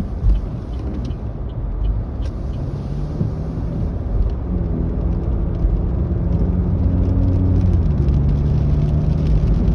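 Car running on the road, heard from inside the cabin: a low, steady rumble of road and engine noise. An engine hum comes in about four seconds in and rises a little in pitch near the end.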